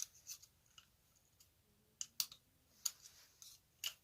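Scattered sharp metal clicks and light scrapes, about five at irregular intervals, from a screwdriver working on the parts of a Briggs & Stratton engine under assembly.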